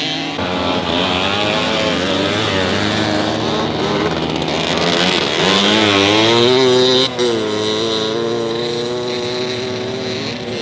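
Vintage motorcycle engines racing past, revving up and down, with more than one bike heard at once. The engine sound drops out briefly about seven seconds in, like a gear change.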